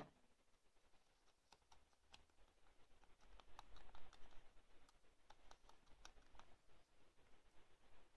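Faint, irregular light taps and clicks with soft rubbing, busiest about halfway through: hands working on a paper-clay fake waffle while colouring it.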